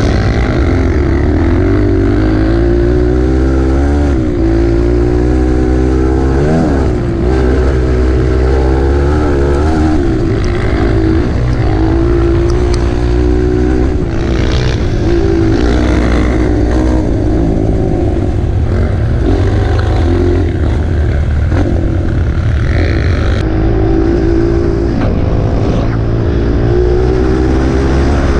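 Dirt bike engine running, its pitch rising and falling as the throttle opens and closes, with quick revs about four and six and a half seconds in.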